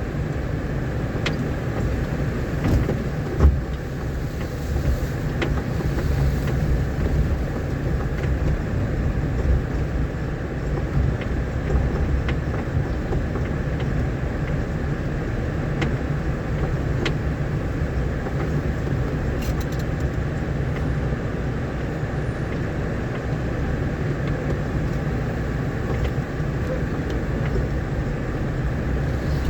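Vehicle driving along a rough, rain-damaged dirt road: a steady low engine and road rumble, with a few sharp knocks here and there.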